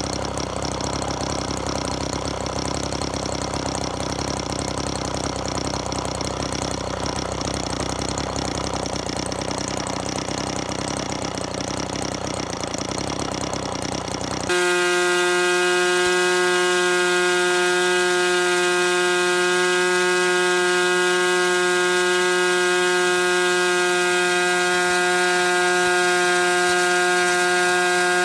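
O.S. .61 SX-H two-stroke glow model engine running with a noisy, uneven sound. About halfway through it switches abruptly to a louder, steady, high-pitched whine.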